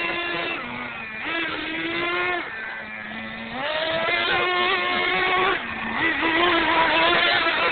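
Radio-controlled monster truck's motor running in throttle bursts, its pitch rising and falling over and over as it speeds up and eases off.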